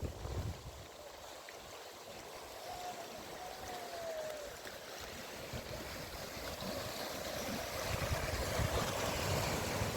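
Sea surf washing onto the beach, swelling louder in the second half, with wind on the microphone.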